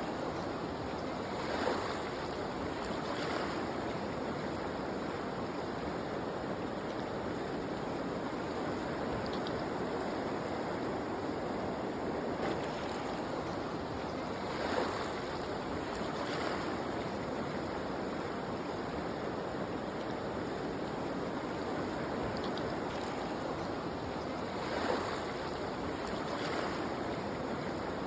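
Torsa river water rushing steadily, with a few brief louder surges.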